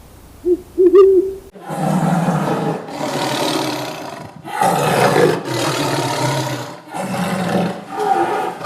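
A few short hoots, then an animal calling loudly in four long, harsh calls of about a second and a half each, with short pauses between them.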